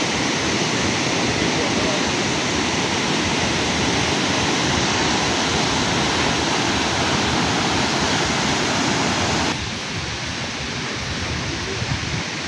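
Thomson's Falls waterfall rushing in a loud, steady wash of noise. About nine and a half seconds in, the sound drops suddenly to a softer, duller rush.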